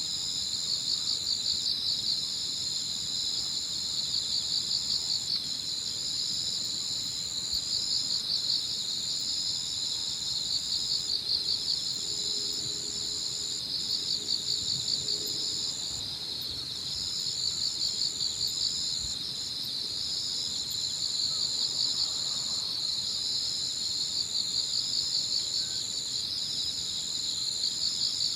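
Evening chorus of crickets and other singing insects. One keeps up a steady high trill with brief breaks, while another, lower in pitch, sings in rapid pulsed phrases about every two seconds.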